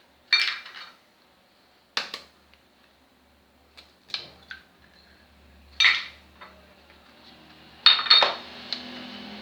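Eggs being cracked against a bowl, heard as a series of short, sharp knocks and clinks of dishware a second or two apart.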